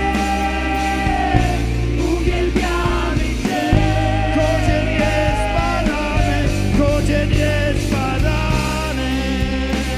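Live band worship music: singing voices over a full rock band, with a heavy, steady bass and drums.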